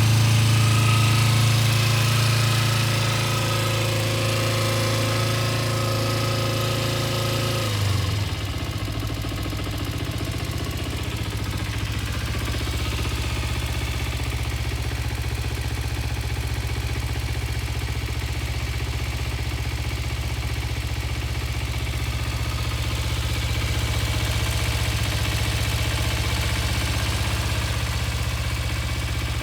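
Kawasaki Ninja 250's parallel-twin engine running just after a cold start. It holds a raised idle, then about eight seconds in the engine speed drops sharply and it settles into a steady, lower idle.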